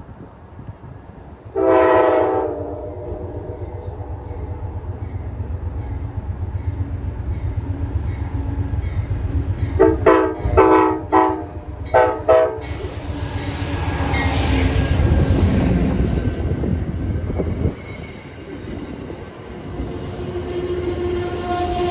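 Amtrak passenger train's diesel locomotive sounding its horn, one blast of about a second, then as it draws near a quick series of short blasts. The locomotive rushes past with a loud roar of wheels and engine, and the coaches roll by with a steady wheel squeal toward the end.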